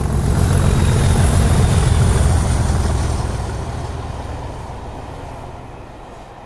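A train passing close by: a heavy low rumble that swells to its loudest about two seconds in and then dies away.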